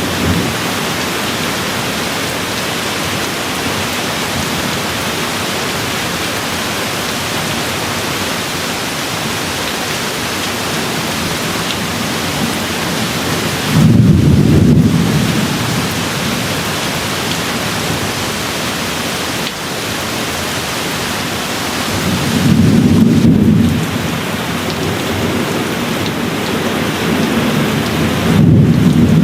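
Steady rain falling, a continuous even hiss, with three short low rolls of distant thunder: about halfway through, at about three-quarters, and again near the end.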